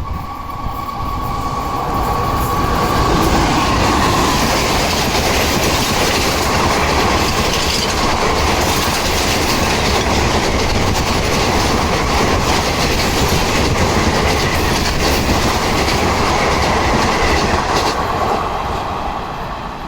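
Train passing close by at speed, its wheels clattering over the rails. The noise builds over the first couple of seconds, stays loud and steady, and starts to fade near the end.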